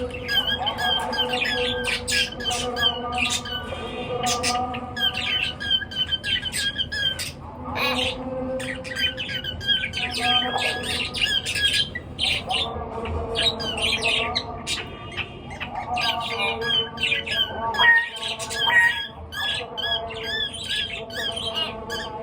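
Pet cage birds chirping and squawking continuously, many short calls overlapping, with a lower steady tone coming and going underneath.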